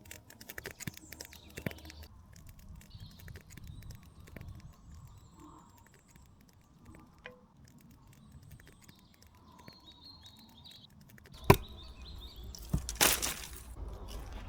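Forest ambience: birds chirping with small scattered crackles, then a loud sharp crack about 11 seconds in and a few louder crunches near the end.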